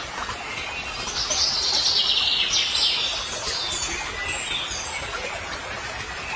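A bird calling: a loud burst of rapid high chirps for about two seconds, starting about a second in, then a few fainter short calls, over a steady outdoor background hiss.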